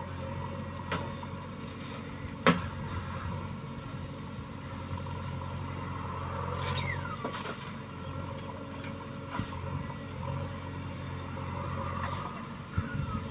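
Heavy diesel machinery running steadily with a low hum, with a sharp metallic clank about two and a half seconds in, a few lighter knocks, and a couple of short falling squeaks.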